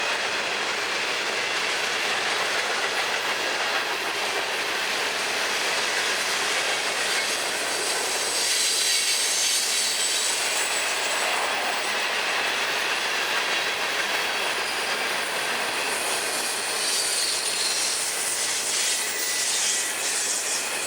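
Long Florida East Coast Railway freight train rolling past: the steady noise of steel wheels running on the rails, with thin high squeals from the wheels in the second half.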